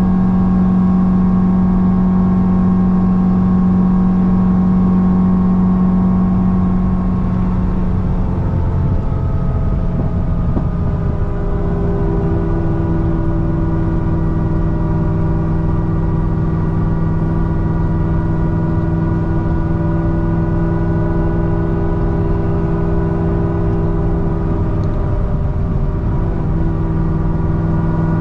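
Supercharged 6.2-litre LS9 V8 of a Corvette C6 ZR1 with a Kong 2650 supercharger, cruising with a steady drone. Between about eight and eleven seconds in, the pitch eases down a little, then it holds steady at the lower note.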